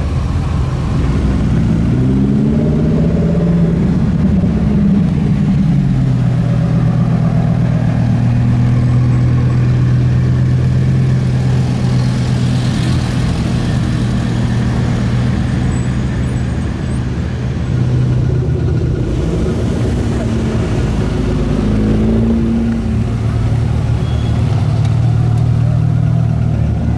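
Italian sports car engine idling with a steady low note. It is revved briefly a few seconds in, and again about two-thirds of the way through.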